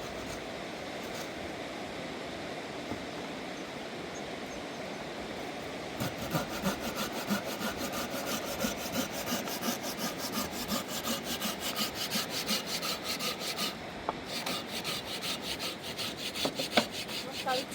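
Hand saw cutting through wood in steady back-and-forth strokes. The sawing starts about six seconds in over the steady rush of the river and pauses briefly about fourteen seconds in before going on.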